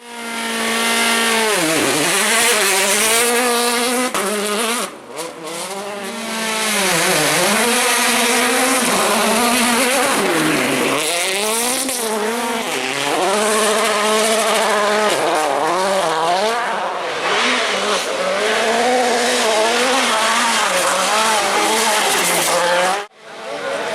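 World Rally Car 1.6-litre turbocharged four-cylinder engines at full throttle, the pitch repeatedly climbing through the gears and dropping off under braking as the cars run flat out. There is a brief drop near the end where one clip cuts to the next.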